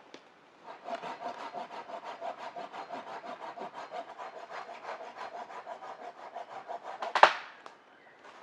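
A hand saw cutting through a wooden branch in rapid, even back-and-forth strokes, about five or six a second, with the blade ringing. Near the end there is a single loud, sharp crack.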